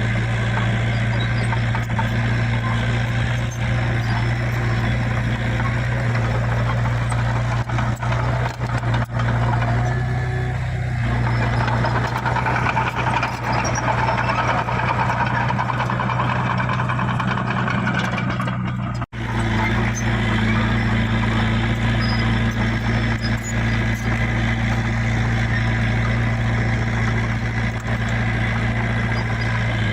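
Heavy diesel engine of earthmoving machinery running steadily under work, with a busier grinding, clattering layer for several seconds just before the middle. The sound drops out for an instant a little past the middle.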